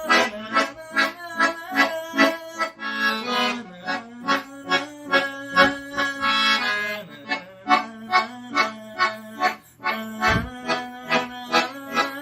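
Accordion playing a chord accompaniment: short, detached chords repeated at a quick even rhythm over a held lower note, moving through a few chord changes.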